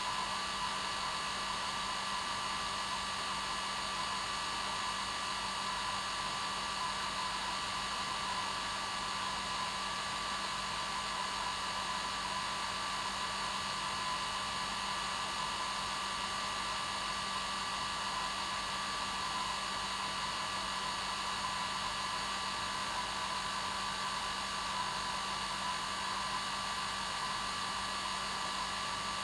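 Hair dryer running steadily: a constant rush of blown air with an even motor hum and whine that never changes.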